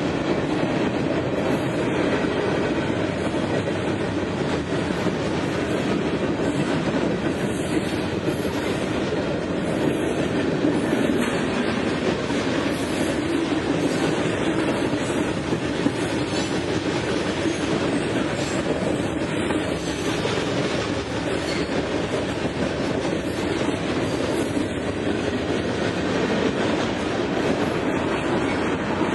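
Freight train of covered hopper cars rolling steadily past at speed: a continuous rumble and rattle of steel wheels on the rails.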